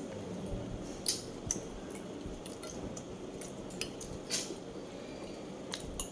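Close-miked eating sounds: a handful of sharp clicks and clinks of utensils against a dish, the loudest just past the middle, over a low steady hum.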